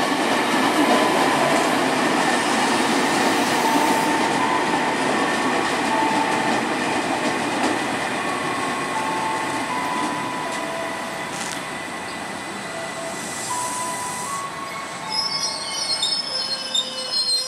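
Electric commuter train running through the station, its wheels squealing in steady high tones over the rumble of the cars. The noise slowly fades, then a burst of shriller squeals comes near the end.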